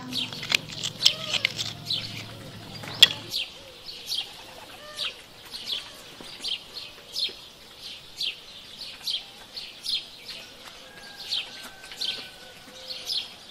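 Small birds chirping, short falling chirps repeated about twice a second, with one sharp click about three seconds in.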